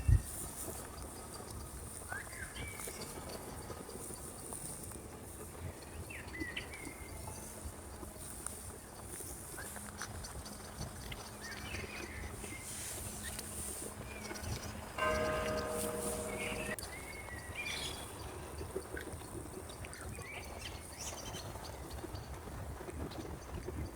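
Outdoor ambience of birds chirping here and there over a steady high hiss. About fifteen seconds in, a louder held sound of several steady pitches sounds for under two seconds and stops abruptly.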